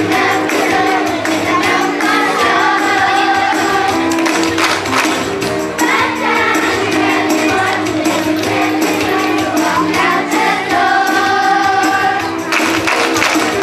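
School chorus singing in unison over instrumental accompaniment, with occasional percussion hits.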